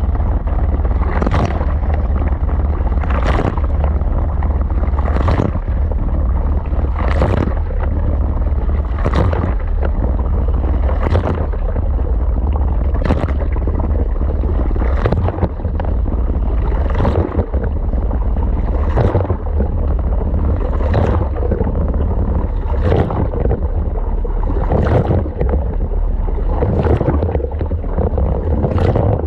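Wash cycle heard from inside an LG washing machine drum: a steady deep rumble with water churning and sloshing, and a short splash or knock about every two seconds as the drum turns and the load tumbles.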